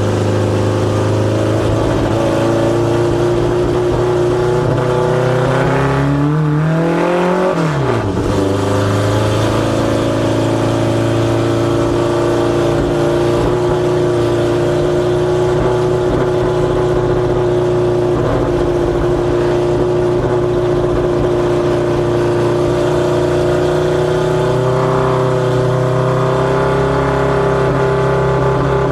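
Ministock Fox-body Mustang race car's engine running hard at steady high revs on track laps. About seven to eight seconds in, the pitch briefly rises and then drops sharply before settling back.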